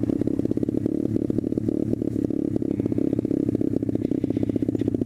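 SSR125TR 125cc pit bike's single-cylinder engine running steadily while being ridden, a rapid even train of exhaust pulses.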